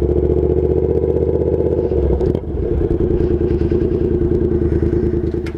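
Yamaha FZ-07 parallel-twin motorcycle engine, fitted with a Danmoto aftermarket exhaust, running at a steady pitch, with a brief dip about two seconds in; it stops abruptly near the end.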